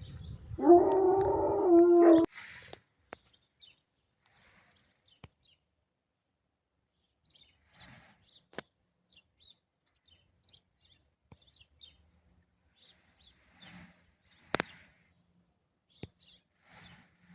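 Peacock giving one loud, wailing call about a second and a half long, starting about half a second in. Faint high chirps and a few sharp clicks follow.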